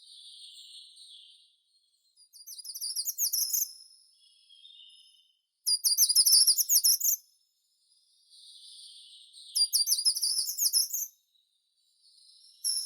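A songbird singing: three loud, high, rapid trilled phrases a few seconds apart, each led in by a softer, lower warble.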